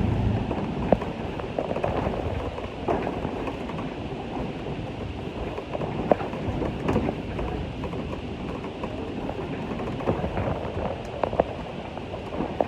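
Railway brake van rolling along the line: a steady rumble with scattered sharp clicks and knocks.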